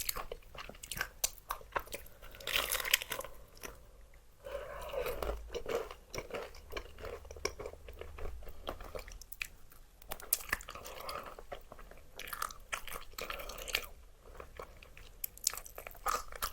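Close-miked biting and chewing of crispy fried chicken: dense, sharp crackling crunches, with a softer stretch of chewing from about five to nine seconds in.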